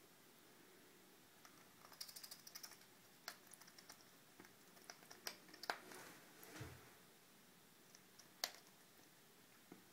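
Faint scattered clicks and taps: a quick run of ticks about two seconds in, a few single clicks, a soft low thud, and a sharper click near the end.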